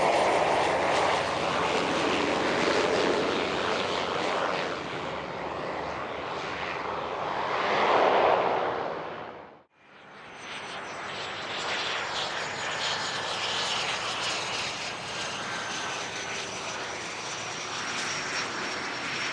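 Aircraft engines running loud on a passing plane, swelling about eight seconds in and then cut off abruptly. After the cut another aircraft engine sound builds, with a thin high whine.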